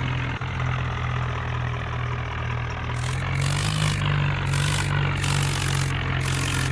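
Tractor diesel engine idling steadily. From about halfway through, short bursts of high hiss come and go over it.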